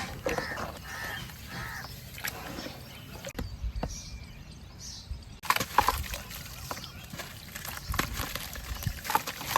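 White cement shapes crumbling in water: soft wet sloshing first, then from about halfway a sudden run of dense crackling and small clicks as the pieces break apart.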